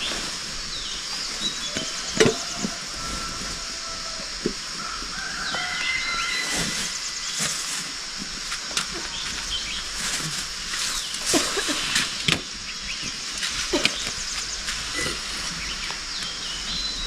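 Outdoor ambience: a steady high hiss with scattered clicks and knocks, the loudest about two seconds in, and a few faint bird chirps in the first half.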